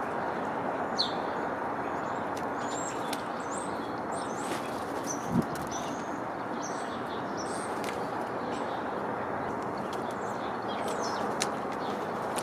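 Birds chirping in short, high calls scattered throughout, over steady background noise, with one soft thump about five seconds in.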